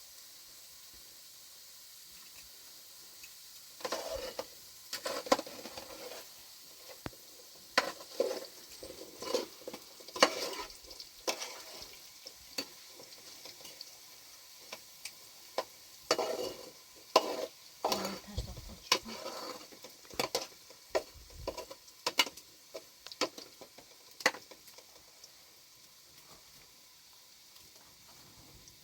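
Food frying in a pan with a faint, steady sizzle, while a spoon stirs and scrapes against the pan in irregular strokes. The stirring stops near the end and the sizzle carries on alone.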